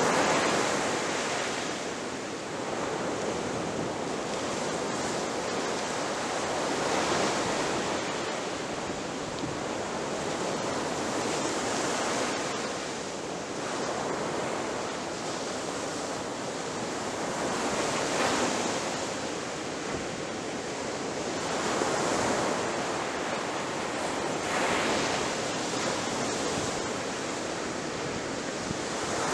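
Ocean surf breaking on a shore: a continuous rush of water that swells and eases every few seconds as each wave comes in.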